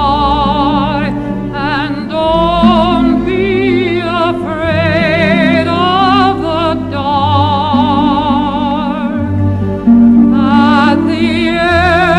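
Music: a solo singer holds long notes with heavy vibrato in an operatic style, over sustained low accompaniment.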